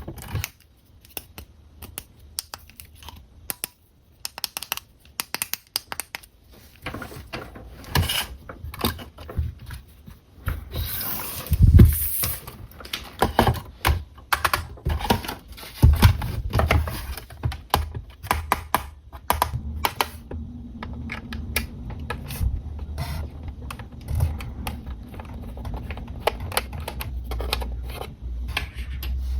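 Hands unboxing a plastic RC toy car: many small sharp plastic clicks and taps, with a louder crinkling rustle of packaging about eleven to twelve seconds in.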